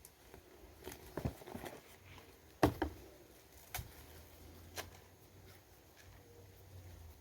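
Ears of green corn being husked by hand: scattered crackles and knocks as the husks are torn and handled, the loudest a sharp knock a little under three seconds in.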